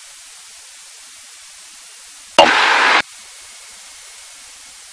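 Steady hiss of a cockpit intercom audio feed, broken about two and a half seconds in by a half-second burst of rushing static that switches on and off abruptly, as when the intercom's squelch opens briefly.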